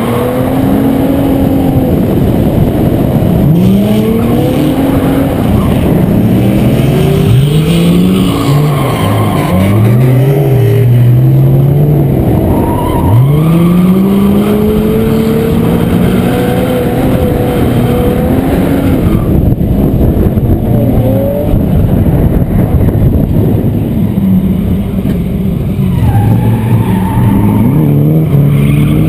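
Car engine revving hard, its pitch climbing and dropping over and over as the car drifts around the course, with tyres skidding on the pavement underneath.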